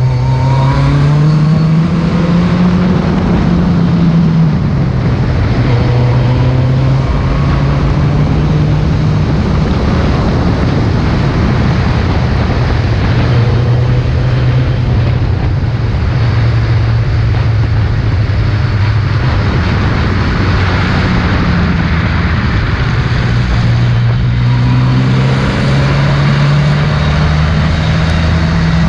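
A Ford Escort RS competition car's engine running hard under acceleration. It is loud throughout. Its pitch climbs over the first few seconds, drops back around four seconds in, then stays high and climbs again near the end, over a steady rush of noise.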